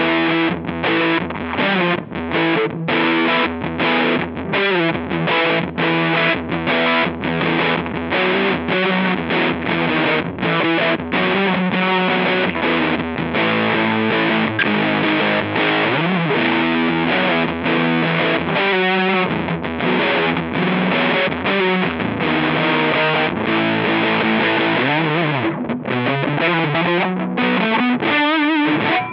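Electric guitar played through a Rowin LEF-606 fuzz pedal, giving a thick, fuzzy distorted tone. It plays quick repeated chugging strokes for about the first twelve seconds, then longer held notes, and separate picked notes near the end. The player finds this cheap fuzz easily turns mushy and undefined.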